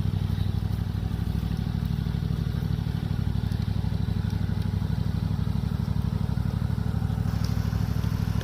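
Engine of a Toro TimeCutter zero-turn mower running steadily at a constant speed, a low, evenly pulsing engine note.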